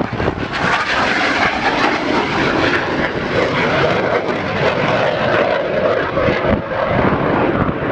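Hawker Hunter jet in flight, its engine a loud, steady rushing noise with a band of pitch that rises a little in the middle, and wind buffeting the microphone.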